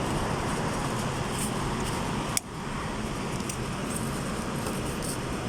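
Steady background noise with no clear event, briefly cut out about two and a half seconds in.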